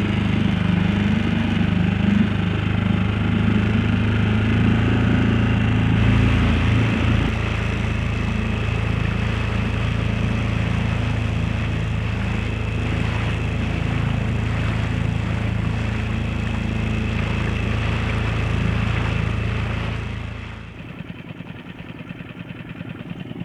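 Dinghy outboard motor running steadily as the dinghy moves along; the sound drops away sharply about twenty seconds in.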